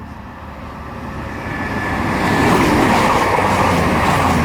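Class 220 Voyager diesel-electric multiple unit approaching and passing through the station, its underfloor diesel engines and wheels on the rails growing louder over the first two and a half seconds, then staying loud as it goes by.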